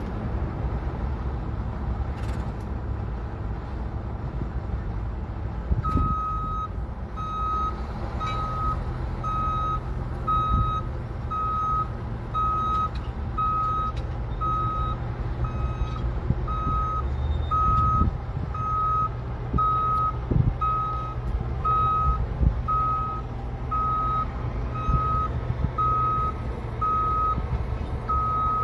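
Heavy equipment working, with a low engine rumble throughout. About six seconds in, its reversing alarm starts beeping steadily, roughly one beep a second, as the machine backs up.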